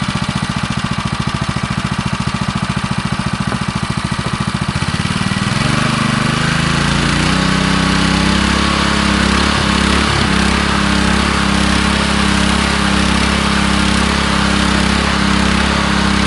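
Ruslight 168F-2 single-cylinder four-stroke petrol engine idling with distinct, even firing pulses. About five seconds in it speeds up and holds a louder, higher steady run.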